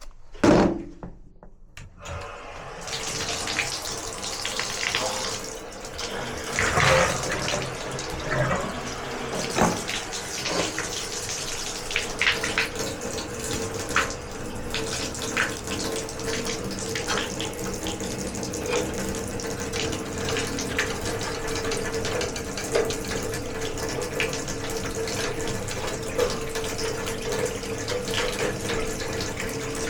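Water running steadily from an open tap, starting about two and a half seconds in, with a faint steady hum underneath. A single sharp knock comes just before it.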